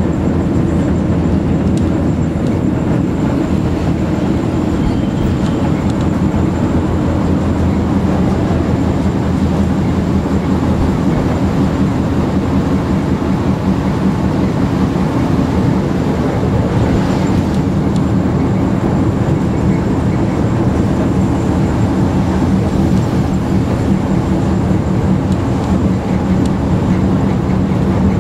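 Steady rumble of a train running along the track, heard from on board.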